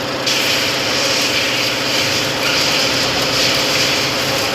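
Car engine idling steadily, with a hiss that starts abruptly a moment in and carries on over the engine.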